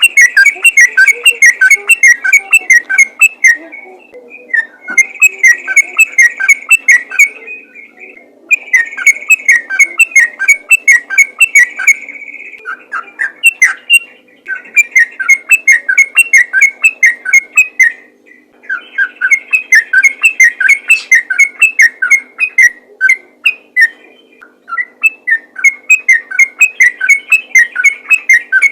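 Sooty-headed bulbul (trucukan) singing fast, unbroken runs of loud whistled notes, phrase after phrase of a few seconds each with short breaks between. This is the rapid 'ropel' song of a bird in full song (gacor).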